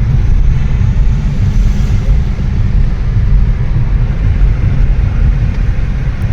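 Steady, loud low rumble of a road vehicle driving through a tunnel.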